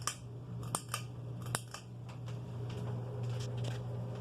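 Hampton Bay 42-inch ceiling fan running on low just after being switched on: a steady low motor hum, with a few sharp clicks in the first two seconds.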